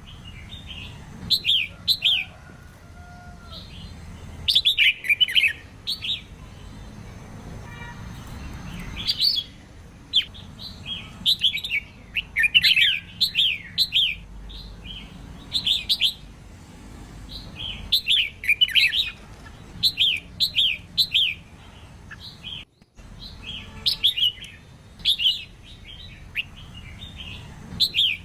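Female red-whiskered bulbul singing: short phrases of quick, falling whistled notes, repeated every second or two.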